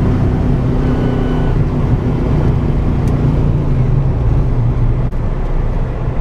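1987 Ford Mustang GT's 5.0-litre V8 running at low, fairly steady revs, with a slight rise and fall in pitch, over a steady hiss of tyre and road noise.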